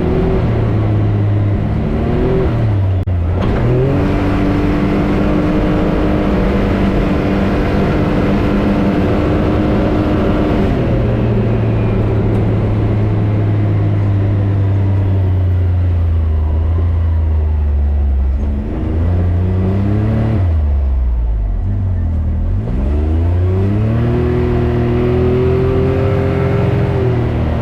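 Can-Am Maverick X3 Turbo RR's turbocharged three-cylinder engine running under way, its pitch holding steady for long stretches. It eases off and comes back about three seconds in, then falls nearly to idle about two-thirds of the way through before revving back up.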